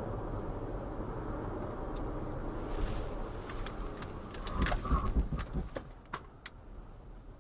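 Steady road and engine rumble of a moving vehicle, then a quick cluster of sharp knocks and low thumps about two-thirds of the way through, after which the rumble falls away.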